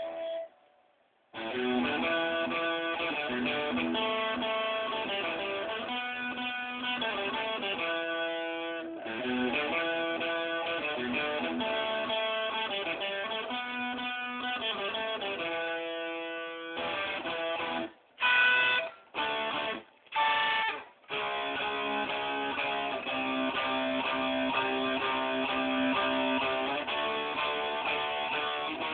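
Guitar playing strummed chords. It stops briefly about a second in, then again in a few short breaks about two-thirds of the way through.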